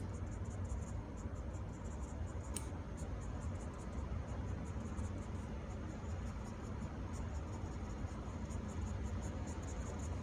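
Pen strokes scratching lightly on paper while a plant is drawn, over a steady low background rumble, with one short click about a quarter of the way in.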